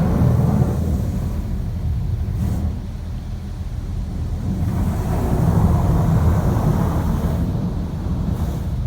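High-pressure rinse water from a LaserWash M5 touchless car wash spraying onto a car, heard from inside the cabin as a heavy low drumming and hiss. It swells and fades twice as the spray arm passes over the car.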